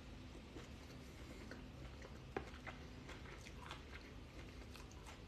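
A person chewing a mouthful of salad quietly, with a few faint clicks, the sharpest about two and a half seconds in.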